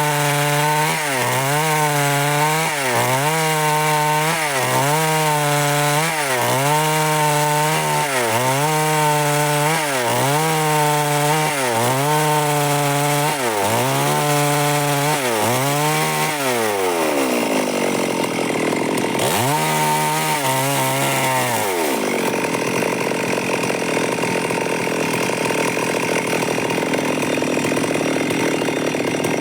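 Stihl MS 382 two-stroke chainsaw running at high speed under load, its pitch dipping and recovering about every second and a half as the chain bites into the wood. Past the middle the pitch sags away, comes back briefly, then turns into a steadier, noisier cutting sound.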